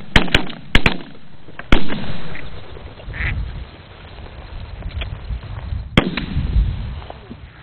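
Several shotguns firing at ducks, a quick volley of blasts in the first two seconds and one more shot about six seconds in, with ducks quacking in between.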